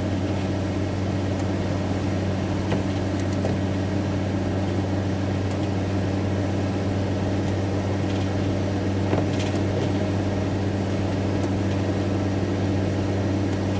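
Van cab interior while driving at motorway speed: a steady low drone of engine and road noise, with a few faint ticks.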